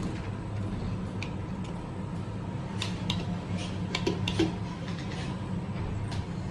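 Lift car travelling down: a steady low rumble and hum from the moving car, with scattered light clicks and ticks, several of them clustered a few seconds in.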